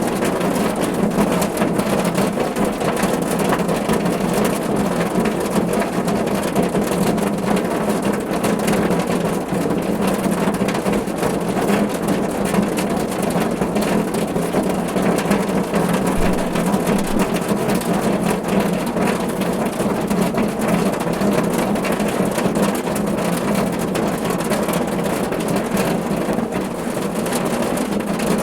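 Steady, heavy rain drumming on a car roof: a dense patter of countless drops over a constant low rumble.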